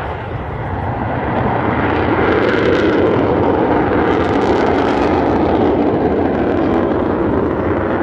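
Avro Vulcan bomber's four Olympus jet engines during a display flypast. The loud jet noise builds over the first couple of seconds, holds, then eases slightly.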